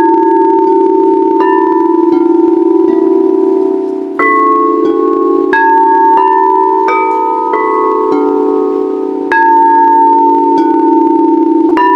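Singing bowls struck one after another, about ten strikes, each ringing on in a long sustained tone. Bowls of different pitches overlap into a continuous shimmering drone.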